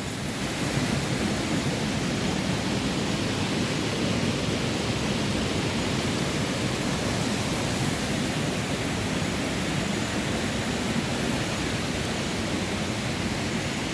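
Steady rushing water, an even hiss without breaks or distinct events.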